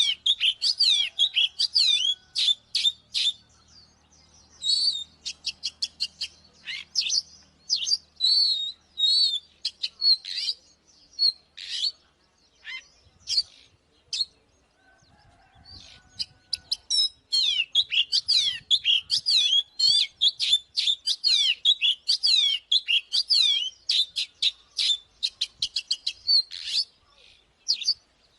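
Oriental magpie-robin singing: a fast, varied run of whistled, gliding and scratchy notes. It thins out for a few seconds about halfway through, then picks up again in a long unbroken stretch of song.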